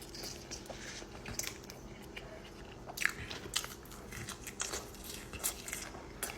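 Close-miked eating of crunchy food: bites and chewing with a string of sharp, crackling crunches, thickest in the middle of the stretch.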